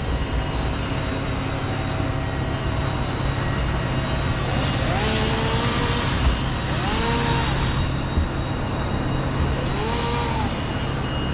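A motor running steadily, its pitch rising and falling briefly three times.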